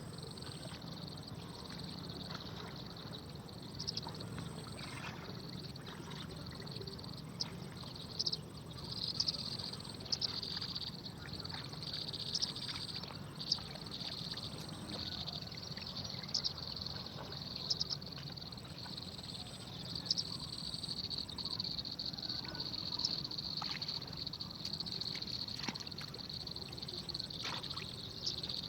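A steady, high-pitched insect drone, with scattered short chirps and clicks over it.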